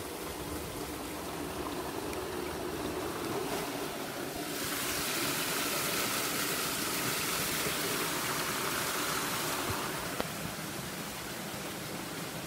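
River water flowing, a steady rushing noise that grows louder and hissier from about a third of the way in until about three quarters through, then falls back.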